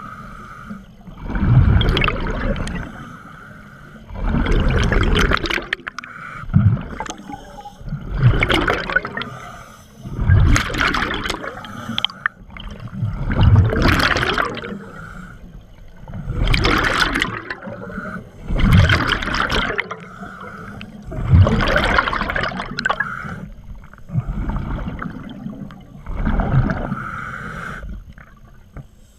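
Scuba diver breathing through a regulator underwater: a gurgling burst of exhaled bubbles every two to three seconds, with quieter gaps between breaths.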